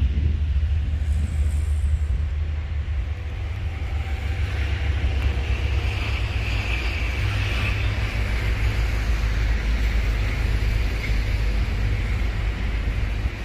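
Freight train of flat wagons rolling past in a steady low rumble, with a hiss that swells about six seconds in.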